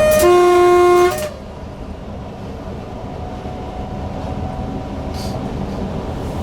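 Two-tone horn of a Newag Impuls EN63 electric multiple unit: a short higher note, then a lower note held for about a second. After that the train's steady running noise from the cab.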